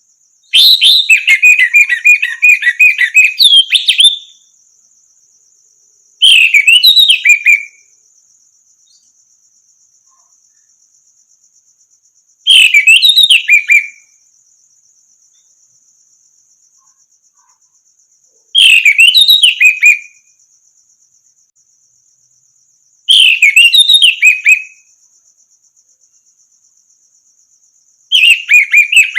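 Orange-headed thrush singing in separate phrases: one long rapid warbling phrase at first, then short whistled phrases of a second or so every five to six seconds. A faint steady high whine runs underneath.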